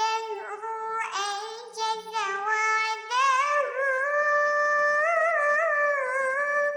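High-pitched, electronically altered singing voice, edited to pass as a singing cat, carrying a sholawat melody: a few short notes, then about three seconds in a long held note with a wavering pitch that stops near the end.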